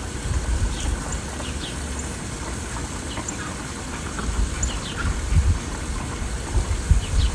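Songbirds chirping outdoors: short, high notes repeating about once a second, over a low, uneven rumble that swells twice near the end.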